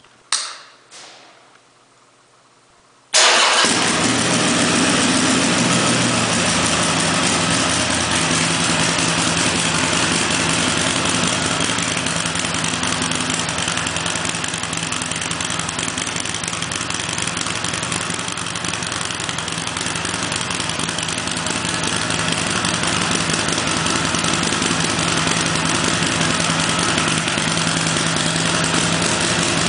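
Two short clicks, then about three seconds in a 2009 Harley-Davidson XR1200's 1200 cc air-cooled V-twin starts up and idles steadily through a Torque Hammer 2-into-1 single-can exhaust.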